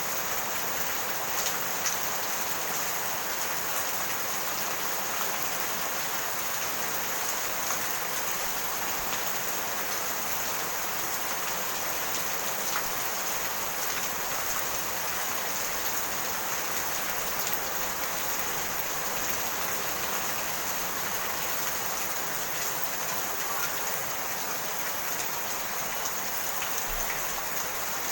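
Steady rainfall, drops pattering on surfaces with occasional individual drop ticks.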